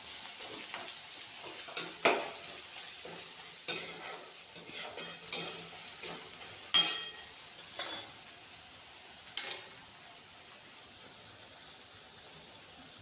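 Onion-tomato masala with ground spices sizzling in oil in a kadhai while being stirred, the utensil scraping and clinking against the pan. The stirring stops after about ten seconds, leaving a steady sizzle.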